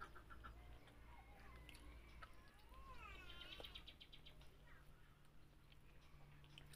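Faint bird calls over quiet room tone: a few quick chirps at the start, then gliding calls and a rapid run of notes about three seconds in.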